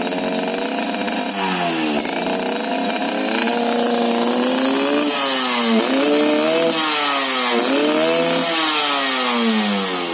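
Yamaha RX King's two-stroke single-cylinder engine revving through a YA MGM aftermarket exhaust, blipped up and down several times. It has the crisp, ringing "cring cring" exhaust note.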